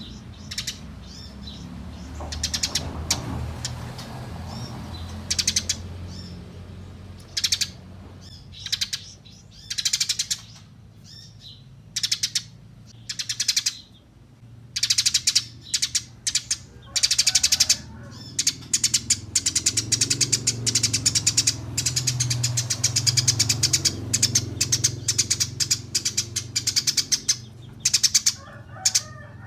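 Eurasian tree sparrow chirping: short bursts of rapid, high chirps at first, then a dense, nearly unbroken chattering from about halfway on.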